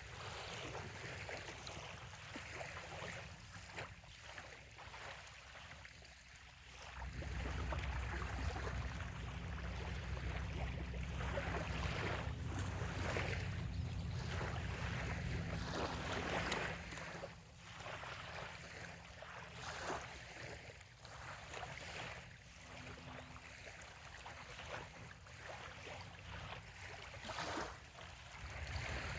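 Small waves lapping and washing on a sandy bay shore, one soft wash after another. Wind rumbles on the microphone for about ten seconds in the middle.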